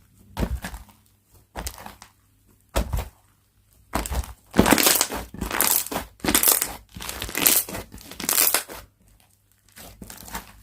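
Hand-played slime being pressed, squeezed and stretched, giving crackly, squelchy bursts. A few separate squishes come in the first three seconds, then a louder run of presses comes about every half second until near the end.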